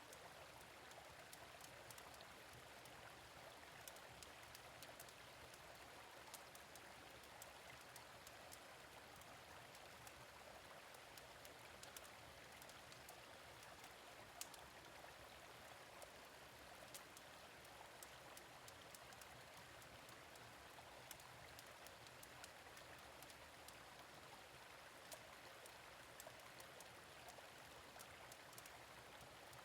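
Faint, steady rush of a gentle stream, with scattered sharp crackles from a fire pit.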